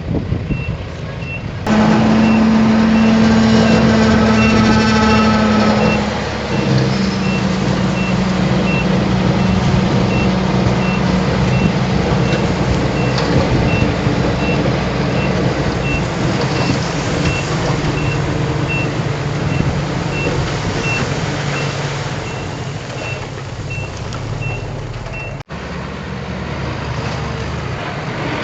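Heavy diesel earthmoving machine running under load with its back-up alarm beeping, about two high beeps a second. The engine sound jumps louder about two seconds in, and the beeping stops near the end.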